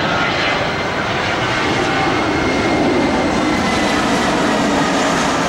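Jet engines of a landing airliner passing low overhead: a loud, steady jet noise with high whining tones.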